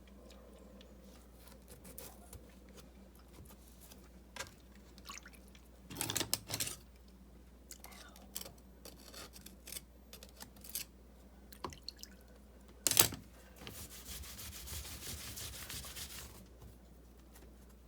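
Scraping, knocking and rubbing of hand work on mortared river rock, with a louder knock about six seconds in and another about thirteen seconds in, then a few seconds of steady rubbing near the end.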